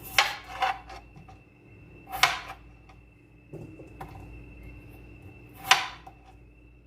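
Knife chopping through raw skin-on potatoes onto a cutting board: two quick chops near the start, another about two seconds in and a last one near the end.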